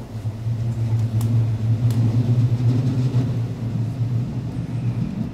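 Steady low hum and rumble of a train running along the line, heard from on board, with a couple of faint clicks early in the run.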